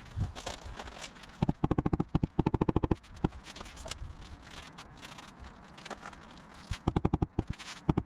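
Two runs of rapid knocking, about ten knocks a second: the first lasts about a second and a half, the second about a second near the end.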